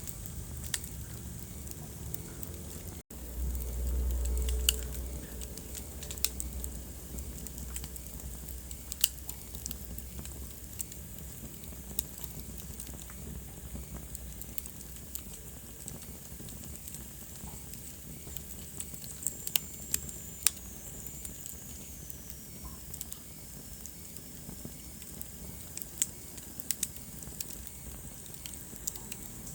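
Wood fire burning in a fireplace: a steady hiss with scattered sharp crackles and pops. The sound cuts out for an instant about three seconds in, followed by a short low rumble. Later a faint high whistle slowly falls in pitch.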